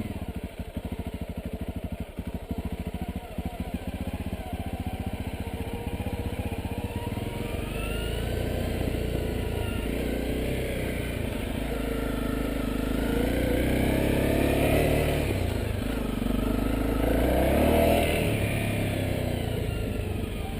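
Honda CRF250L's single-cylinder four-stroke engine running, first with a slow low chugging beat, then revving up and down several times and getting louder, loudest near the end.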